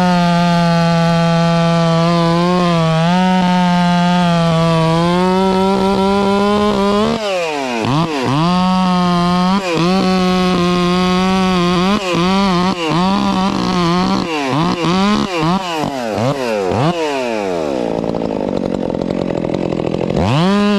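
Gas two-stroke chainsaw running at high revs while cutting wood. Through the middle the throttle is let off and squeezed again many times, so the pitch keeps dipping and climbing. Near the end it drops low for a couple of seconds, then revs sharply back up.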